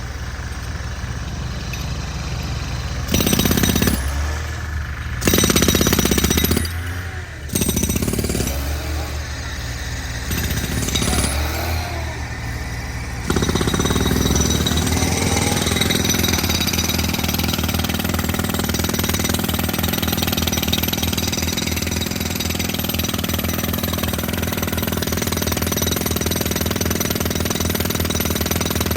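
A motorized machine running with a rapid low pounding rhythm. There are three brief louder surges in the first eight seconds, and it becomes louder and steadier about 13 seconds in.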